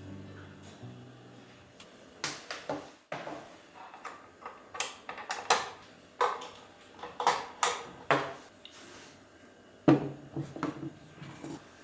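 Small hard objects being handled and set down: a string of sharp, irregular clicks and knocks, with a louder knock near the end. Faint background music fades out at the start.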